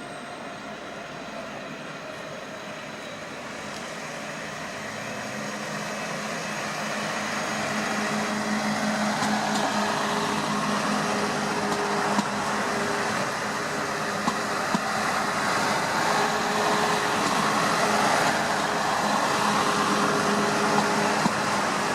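A train approaching and running past, growing louder over the first several seconds, then a steady rush with a hum and occasional sharp clicks of wheels over rail joints.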